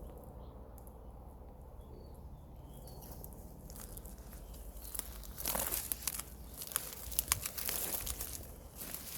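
Crackling, rustling dry vegetation, dense and irregular from about five seconds in, after a quieter stretch with a few faint high chirps.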